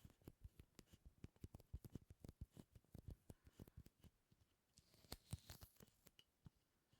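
Close-miked ASMR sticky sounds: quiet, rapid, irregular clicks and snaps, several a second, with a brief soft rustle about five seconds in.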